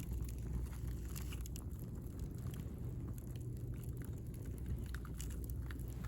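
Driftwood bonfire crackling, with scattered small pops and ticks over a steady low rumble.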